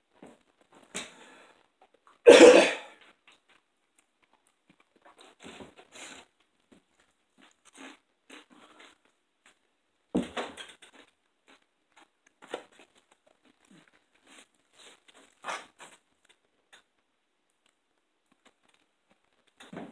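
Close-up eating sounds: scattered chewing and crunching of burger and fries, with a wrapper crinkling around ten seconds in and one much louder short sound about two seconds in.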